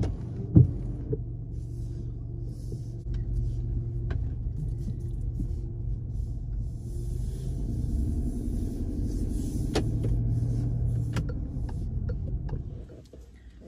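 Car running with a steady low engine and road rumble, heard from inside the cabin; a single thump about half a second in, and the noise fades away near the end.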